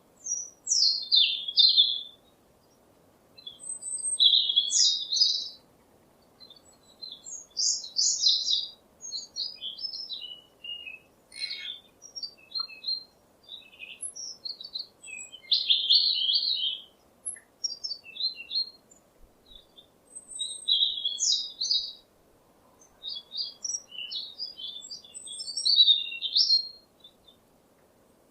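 A songbird singing: high, quick warbled phrases repeated every three to four seconds, with softer twittering notes in between.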